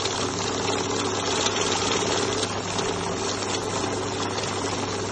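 Accucon banknote counting machine running, its motor humming steadily under a rapid, even riffling of notes being fed through.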